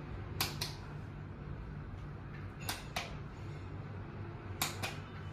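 A fan's light switch being worked three times, each time a quick double click, over a steady low hum.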